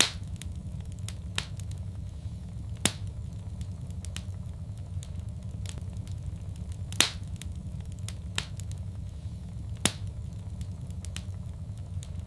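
Fireplace fire crackling: a steady low rumble of the flames with faint ticks and about half a dozen sharp pops scattered through it.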